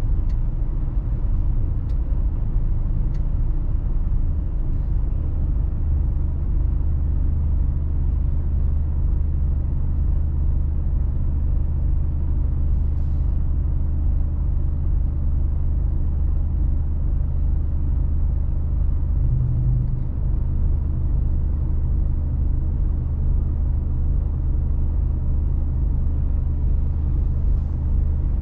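Mercedes-Benz Actros truck's diesel engine running steadily under way, heard from inside the cab as a low, even drone.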